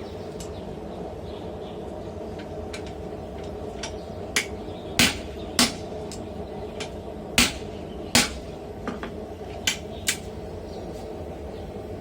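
Blacksmith's hammer striking hot steel on an anvil, forging a tong jaw: about eight separate, irregularly spaced blows with a short ring, with a gap of a few seconds after the first. A steady hum runs underneath.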